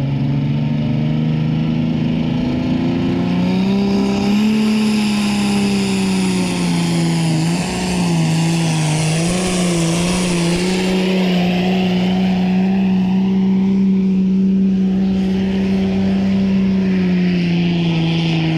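Pulling tractor's diesel engine held at high revs through a run down the track. The pitch climbs a few seconds in, then stays high with a couple of brief dips.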